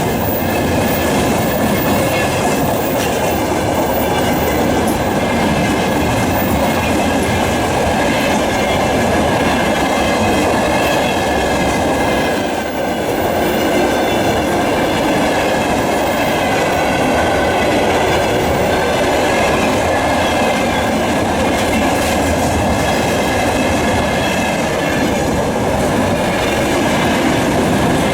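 Container freight train rolling past, its wagon wheels clattering over the rail joints with a steady high ringing over the rumble.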